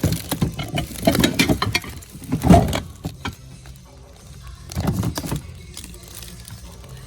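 Handling and rummaging through items on a shelf: irregular bursts of clattering and rattling, loudest about two and a half seconds in and again near five seconds, over faint background music.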